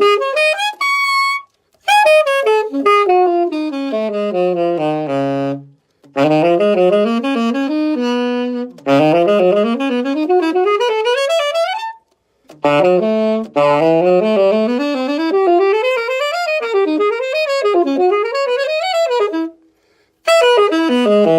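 Alto saxophone playing fast arpeggio runs over the whole range of the horn, down to the lowest notes and back up, in five phrases with short breaths between. The aim is a full, even tone from the bottom to the top.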